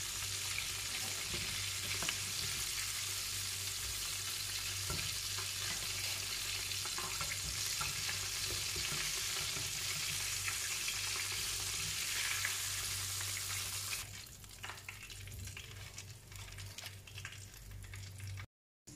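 Breaded chicken pieces frying in hot oil in a pan: a steady sizzle. About 14 s in it drops to a quieter, sparser crackle with scattered ticks.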